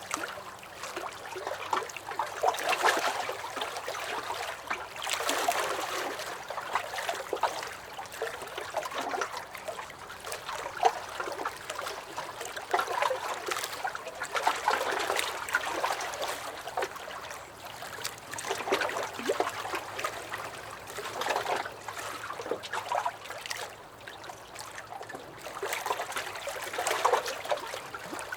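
Small lake waves lapping and sloshing against a dock, a steady run of little splashes and gurgles that swells and eases every few seconds.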